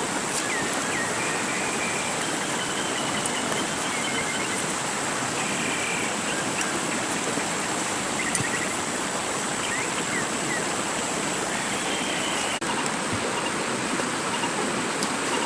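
Steady rushing of running water, as of a rainforest stream, with faint short chirps and a thin high steady tone over it.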